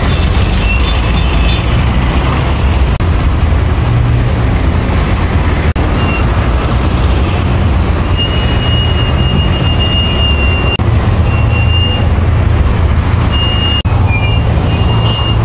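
Motorbike on the move: a steady, loud rumble of engine and wind, with a thin high whistle coming and going in the second half.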